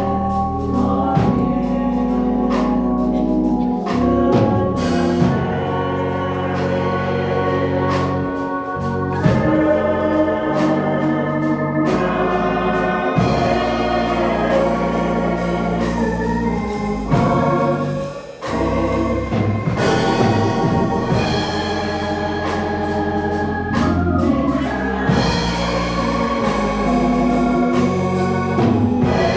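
Church organ playing held chords under a choir singing a song of invitation. The music dips briefly about two-thirds of the way through.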